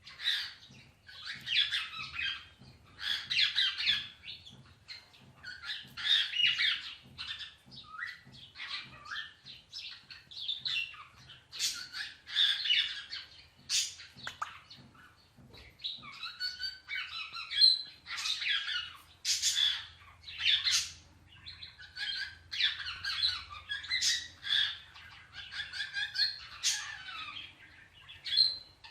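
Parrot squawking and chattering: short, high-pitched calls and chirps, one after another with brief gaps.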